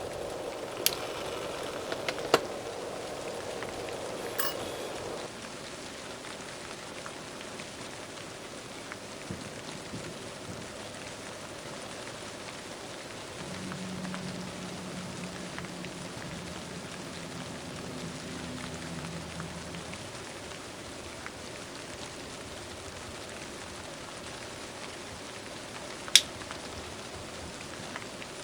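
Steady rain falling, an even hiss, with a few sharp clicks in the first few seconds and one more near the end.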